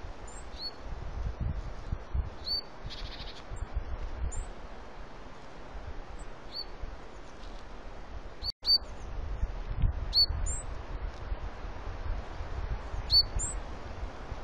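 Short, thin chirps from a small forest bird, one every second or two, over a low rumbling noise like wind on the microphone. The sound drops out for an instant just past the middle.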